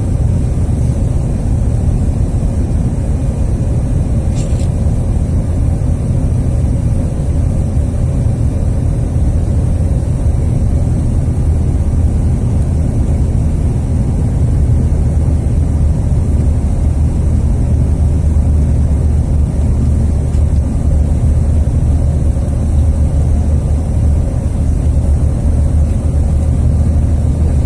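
Bombardier CRJ1000 jet airliner in flight: a steady, loud low rumble of its engines and airflow.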